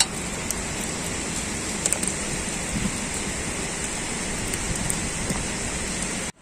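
Heavy typhoon rain falling steadily: a dense hiss with a few sharper drop hits. It cuts off suddenly near the end.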